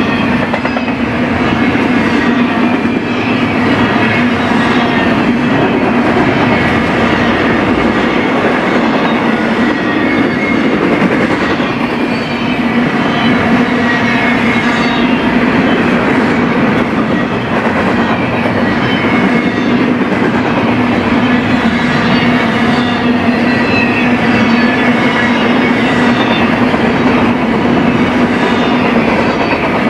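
Double-stack intermodal freight cars rolling past at speed, a steady loud rumble with the steel wheels clicking repeatedly on the rails.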